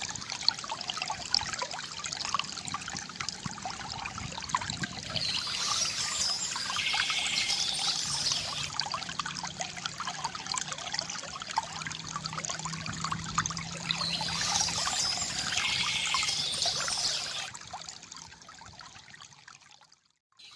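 Water trickling and pouring from a bamboo fountain, a steady splashing flow that fades out near the end.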